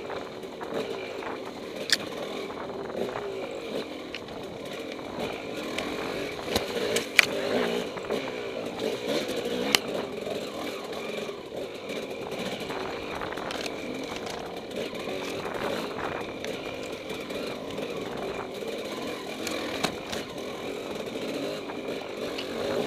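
Dirt bike engine heard from on board, running under constantly changing throttle over rough trail, with a few sharp knocks.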